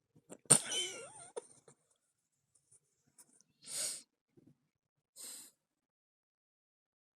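A pet grooming itself with slurping, breathy mouth and nose noises: a sharp sound with a wavering squeak about half a second in, then two short breathy puffs.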